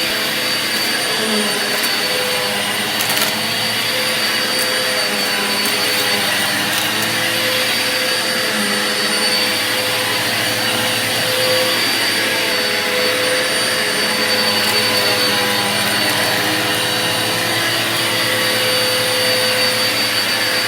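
Vacuum cleaner running steadily, its motor giving a constant whine over a rushing airflow, with a few brief clicks of debris being sucked up about three seconds in.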